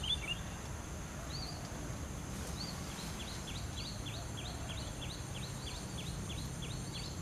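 Small bird chirping: a few high notes, then from about three seconds in a rapid series of short, high, downward-slurred notes, about three a second, over a low steady outdoor background.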